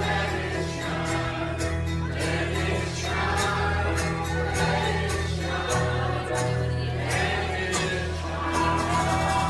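A group of people singing a song together, over sustained low accompanying notes and a steady percussion beat.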